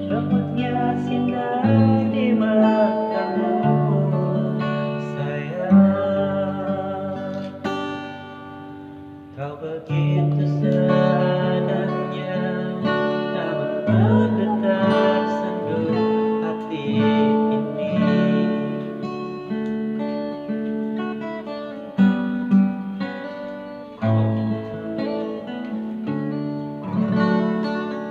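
An amateur voice singing a song over acoustic guitar strumming.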